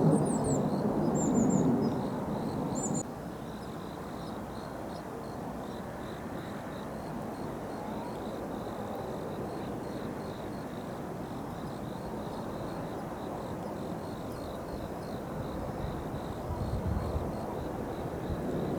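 Jet aircraft rumble that cuts down about three seconds in, leaving a steady low outdoor background with insects chirping throughout and a few bird chirps near the start. The jet rumble builds again near the end.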